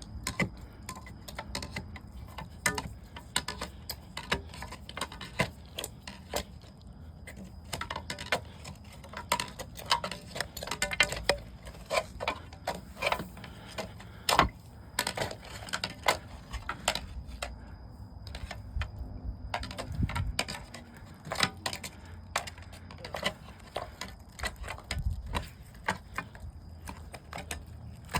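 A metal drain probe jabbing and scraping inside a clogged septic tank inlet pipe, with irregular clinks and knocks as it works at a blockage of toilet paper.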